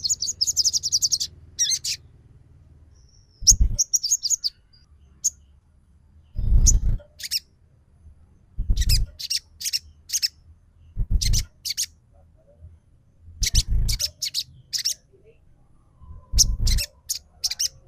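A sogon singing its trilling "trotol" lure song: short bursts of rapid, high chirps and trills every couple of seconds. Several bursts come with a dull low thud.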